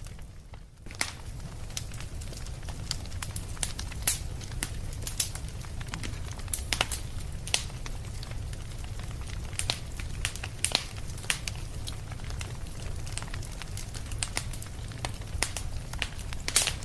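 Wood fire in a fireplace crackling: irregular sharp pops and snaps over a steady low rumble, briefly quieter for the first second, with a loud cluster of snaps near the end.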